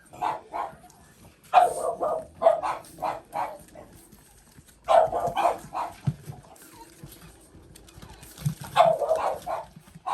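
Puppies yapping: four bursts of rapid, short, high barks separated by quiet gaps.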